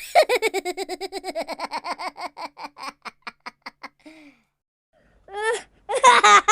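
Human laughter sound effect: a long run of rapid 'ha-ha' pulses, about ten a second, that drops in pitch at the start and fades away over about four seconds. After a short pause a new, louder and higher-pitched laugh begins near the end.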